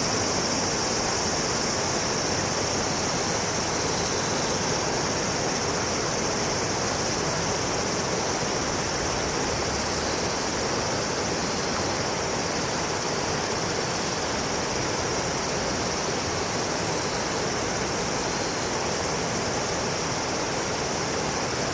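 Steady rush of flowing river water, unbroken throughout, with a constant high hiss above it.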